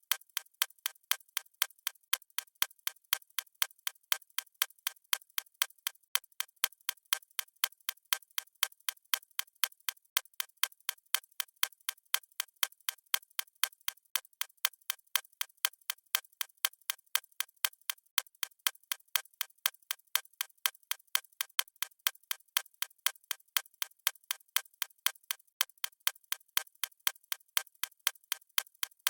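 Clock ticking sound effect: sharp, evenly spaced ticks at about two a second.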